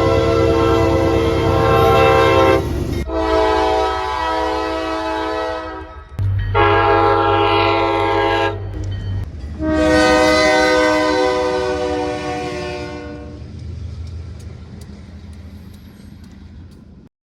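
Locomotive air horn sounding four blasts, long, long, short, long, the standard grade-crossing signal, over the low rumble of the passing train, which fades away near the end.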